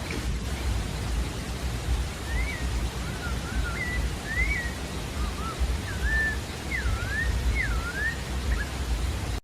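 Sabiá-da-várzea thrush singing a run of short whistled phrases of slurred notes that rise and fall, starting about two seconds in, over a steady hiss with a low rumble.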